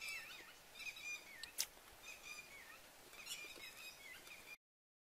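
Small birds chirping and singing in short, slurred, repeated notes, with one sharp click about a second and a half in.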